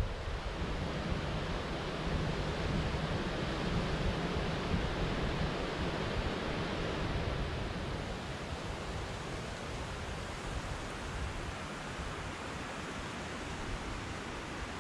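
Steady rushing white-noise ambience, an even hiss with a low rumble underneath that thins out about halfway through as the level eases slightly.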